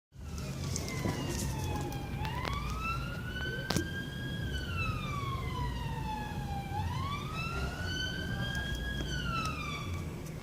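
Emergency vehicle siren in a slow wail, its pitch sliding down and back up twice, over the low rumble of traffic. A sharp click about four seconds in.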